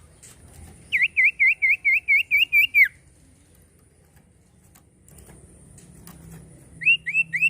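Common iora calling a rapid series of about ten identical clipped, swooping notes, ending on a falling note, then starting a second quick run near the end.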